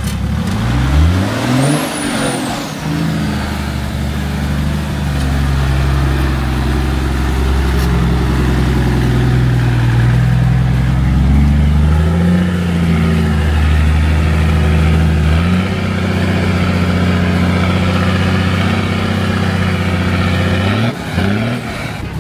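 A 4WD engine working under load, its revs rising and falling several times as it drives on. About two seconds in there is a brief high squeal that falls in pitch.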